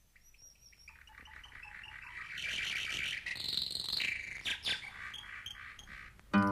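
Birds chirping, fading in and growing louder as the song's intro. An acoustic guitar comes in suddenly right at the end.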